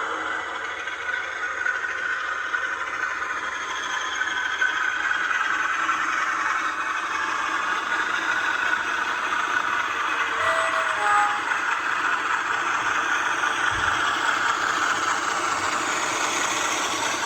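Class 47 model locomotive's DCC sound decoder playing the Sulzer diesel engine sound through the model's small speaker, running steadily with little bass.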